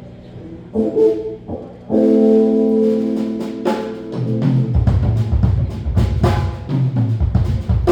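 Live band music: a short note, then held chords, then heavy bass and drums come in about five seconds in.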